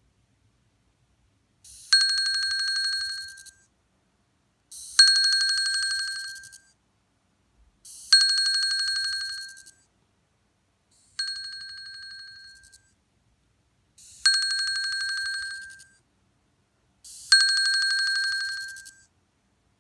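Apple Watch vibrating with an unusual high-pitched buzzing rattle, which its owner takes for a fault: six buzzes about three seconds apart, each lasting a second and a half or so, starting sharply and fading.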